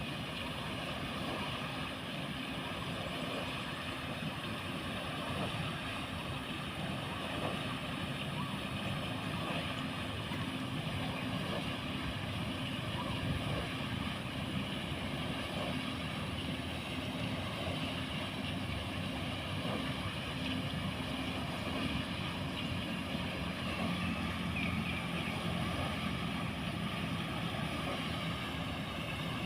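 Water wheel in a pond running steadily: a continuous mechanical hum over churning water.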